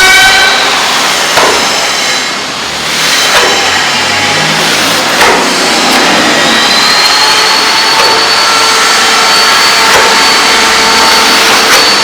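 A loud electric power tool runs continuously with a high motor whine. The whine drops away near the start, then climbs back and holds a steady high pitch from about halfway through, with a few short knocks along the way.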